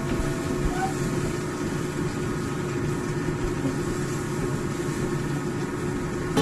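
Onions and spices frying in a wok as they are stir-fried with a spatula, giving a steady, even sizzling hiss.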